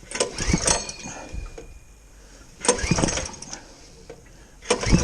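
Coleman CT200U-EXR mini bike engine being pull-started cold: two recoil-starter pulls that turn it over without it catching, then near the end a third pull on which it fires and keeps running with a fast, even beat.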